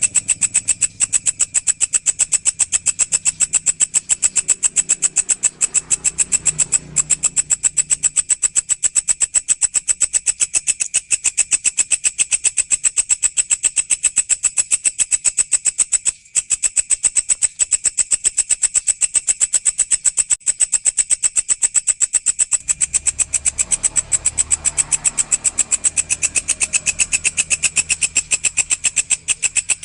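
Walang (grasshopper) stridulating: a steady, rapid, high-pitched pulsed chirring that runs on without a break except for a brief gap about halfway through.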